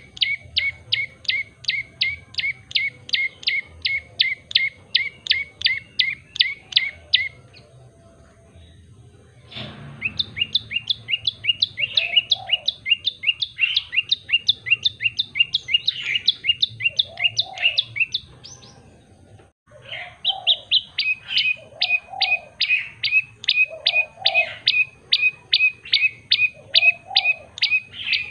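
Tailorbird (prenjak lumut) singing: long runs of rapid, sharp repeated notes, about five a second, in three bouts broken by short pauses about a third and two-thirds of the way through.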